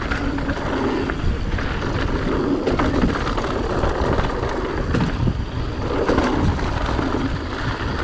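Mountain bike riding down a rocky technical trail: a steady rumble of tyres over dirt and rock, with scattered knocks and rattles from the bike and wind buffeting the camera microphone.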